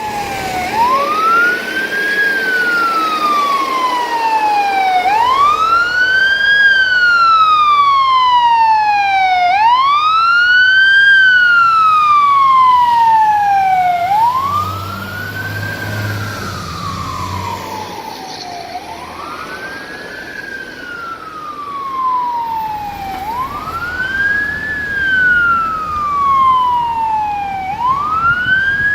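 Fire truck siren wailing. Each cycle climbs quickly, then slides slowly back down, repeating about every four and a half seconds. It becomes quieter about halfway through.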